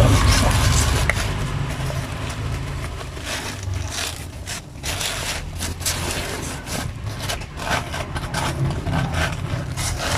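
Irregular scraping, rubbing and light knocking from hand work with the cooking pot and its contents, over a steady low rumble.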